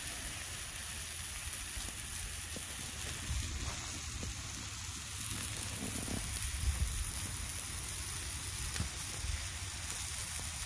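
Thin slices of pork sizzling steadily in a pan over a campfire, a little louder about three seconds in.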